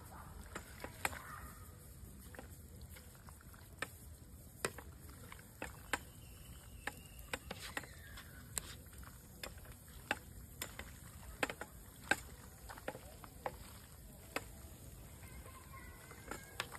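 Wood campfire crackling: irregular sharp pops about one or two a second over a low steady rumble.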